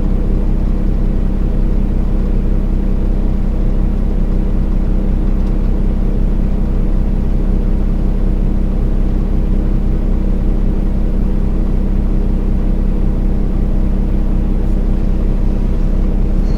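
Kenworth T680's diesel engine running steadily, a low drone heard inside the truck's cab, holding one even pitch without revving.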